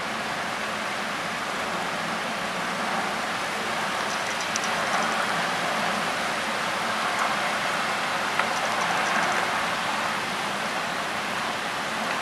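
Heavy cyclone rain falling steadily, an even hiss, with a few faint ticks.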